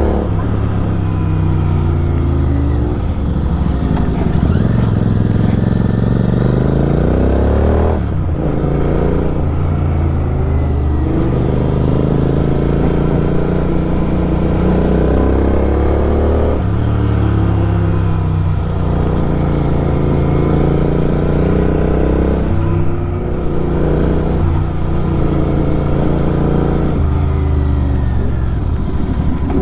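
Superbike with an SC Project aftermarket exhaust accelerating on the road. Its engine note climbs steadily through each gear and drops back sharply at each upshift, four times over.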